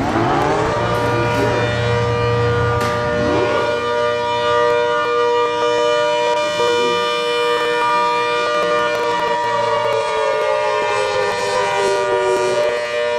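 Two ACA Hurricane civil defense sirens (Mk I and Mk II) winding up and then sounding together in a steady, loud multi-tone wail. Through the second half one of them slowly drops in pitch while the other holds steady.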